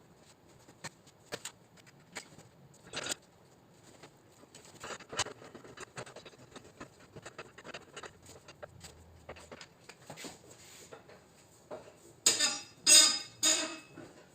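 Light clicks and knocks of paintless dent repair tools being handled against a car's trunk lid, with three louder scraping noises close together near the end.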